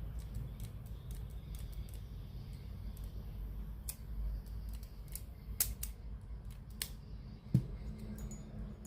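Scattered small clicks and light taps of tools and parts being handled during bench repair of a radio-cassette player, over a low steady hum. A few sharper clicks stand out in the second half.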